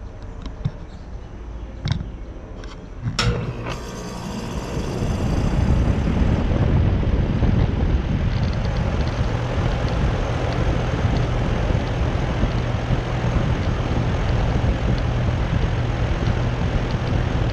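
2013 Trane XB13 2-ton central air conditioner condensing unit starting up: a sharp click about three seconds in as the contactor pulls in, then its scroll compressor and condenser fan come up to speed over a few seconds and settle into a steady run with a constant low hum.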